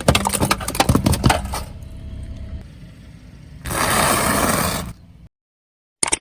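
Something brittle crunching and crackling as it is crushed under a car tyre: a dense run of sharp cracks for about a second and a half, then a burst of hiss lasting about a second, after which the sound cuts off abruptly.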